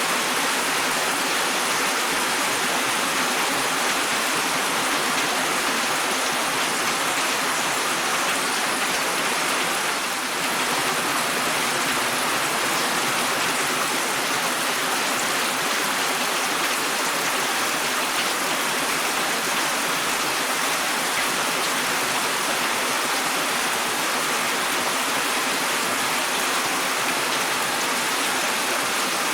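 Steady rain, a dense even hiss of falling water with no distinct drops standing out; the level dips briefly about ten seconds in.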